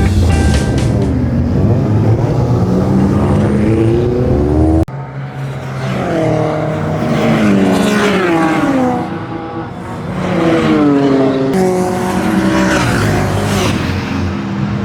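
Race car engines at high revs, the pitch climbing and dropping repeatedly as the cars accelerate and back off, with an abrupt cut to a new shot about five seconds in.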